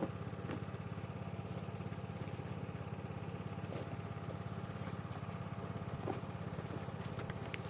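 Portable gas generator's small engine running steadily with a fast, even pulsing drone.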